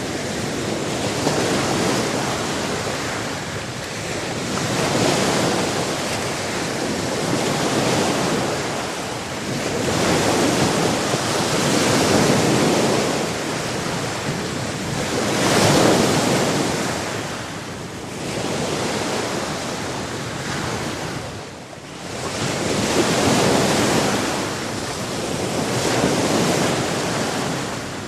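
Sea surf: waves breaking and washing in, the noise swelling and falling away every three or four seconds.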